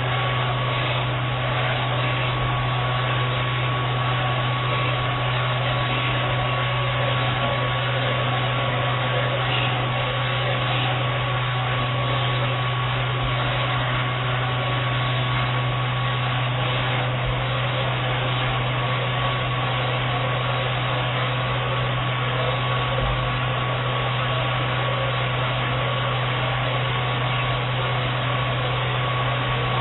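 Vacuum cleaner running steadily: a constant rush of air with a steady whine and a low hum.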